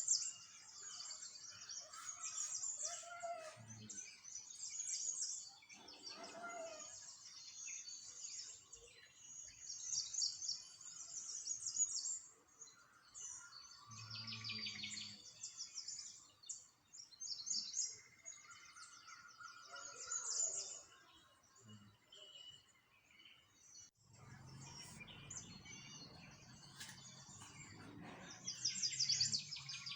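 Small birds chirping and trilling in dense, overlapping high calls, with a low rumble for a few seconds near the end.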